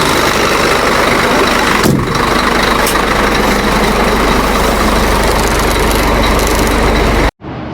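Heavy diesel engine running steadily with a deep, low hum, with a sharp clunk about two seconds in. The sound cuts off abruptly near the end.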